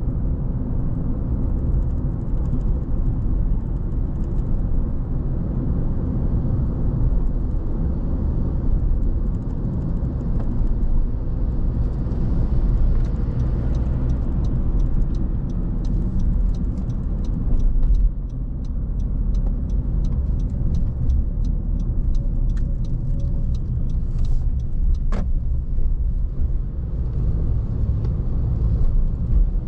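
A car driving, with a steady low rumble of tyres and engine. About halfway through, a run of faint, evenly spaced ticks lasts several seconds, and a single sharp click follows a little later.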